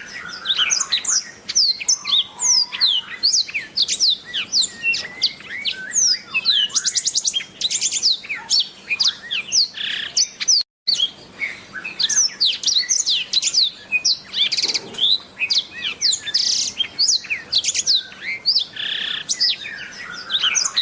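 Black-throated canary singing a long, fast, continuous warbling song of quick rising and falling chirps and trills. The sound cuts out for a split second about halfway through.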